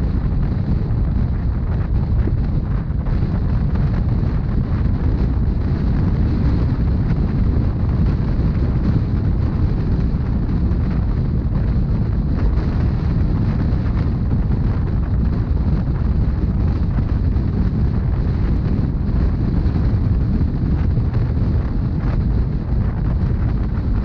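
Steady low rumble of a Rhaetian Railway narrow-gauge passenger train running along the track, heard on board.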